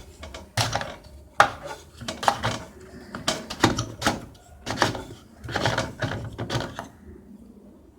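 Irregular plastic clicks, knocks and clatter from the drain pump filter cap at the bottom of an LG front-loading washing machine being worked open by hand, stopping about a second before the end.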